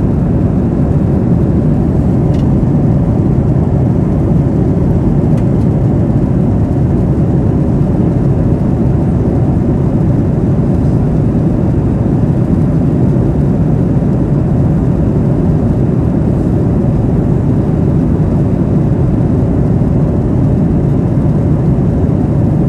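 Steady cabin noise of a jet airliner in flight: engine and rushing-air noise, a dense low rumble with a faint steady hum.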